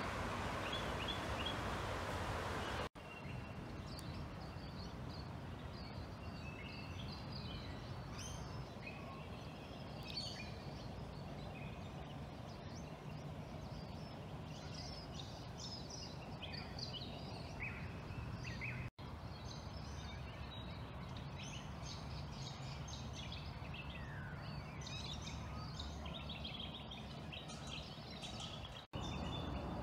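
Birds chirping and calling in many short, high notes over a steady low rushing background. For the first three seconds there is a louder steady rush of noise instead, and the sound cuts out briefly three times.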